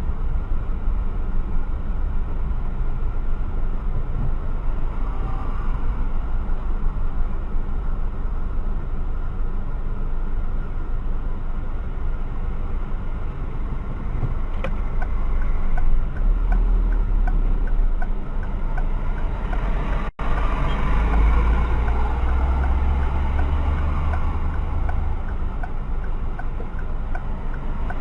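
Steady low rumble of road and wind noise in a moving car, as picked up by a dashcam. It breaks off for an instant about twenty seconds in, then carries on a little louder.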